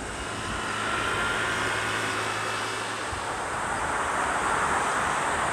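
Jet airliner engines heard from near the runway: a steady rumble with a faint high whine, growing a little louder after about three seconds, mixed with wind noise.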